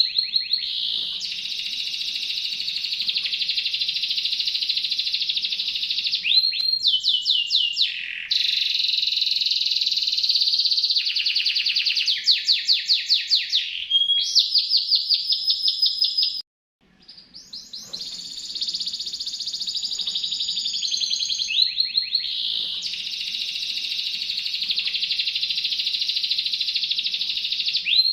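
Domestic canary singing long, rapid rolling trills, switching from one trill type to another every few seconds, with a brief pause about two-thirds of the way through. The song is from a tutor (masteran) recording for songbirds to copy.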